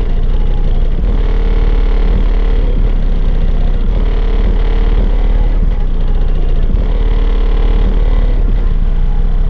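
Bass-heavy music played very loud through a car audio system, a deep steady sub-bass from the subwoofers dominating the sound.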